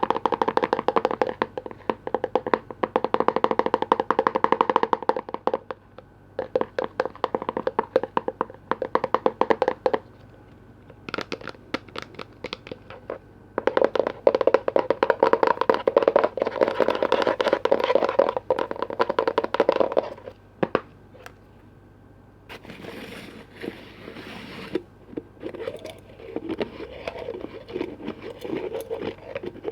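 Fast tapping on container lids in bursts of a few seconds, separated by short pauses. Near the end it gives way to a softer, irregular swishing and scratching.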